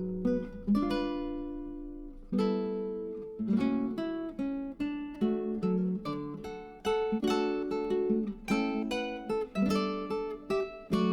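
Background music: acoustic guitar picking notes and chords, each ringing out and fading.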